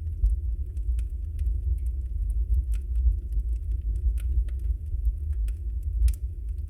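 Wood fire burning in a fireplace, crackling with frequent small snaps over a steady low rumble; one louder pop about six seconds in.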